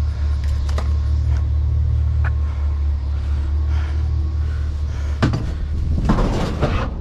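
A vehicle engine idling as a steady low hum, with a few sharp clicks and knocks. About six seconds in, scrap is rustled and clattered as it is handled.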